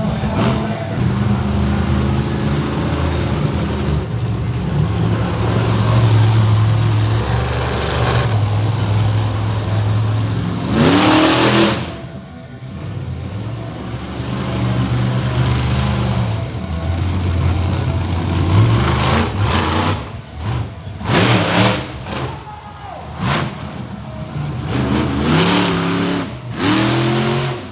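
Monster truck engine running hard, its pitch rising in repeated revs, with loud bursts of engine noise as the throttle opens.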